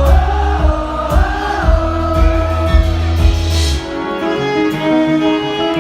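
Live band music with a held sung line gliding up and down; the heavy bass drops out about two-thirds of the way in.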